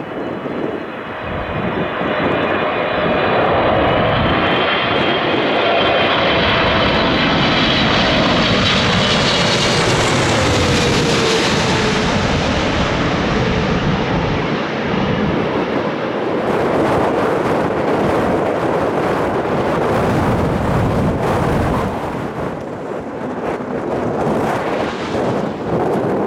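Boeing 777 jet airliner on landing approach passing low overhead: a loud engine roar with a whine whose pitch slides down as it goes by, loudest about ten seconds in. As it moves away the roar fades into gusting wind buffeting the microphone.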